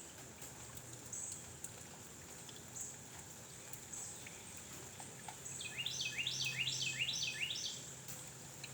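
A small bird sings a phrase of about six quick repeated notes near the end, over short high chirps that come about once a second and a faint low hum.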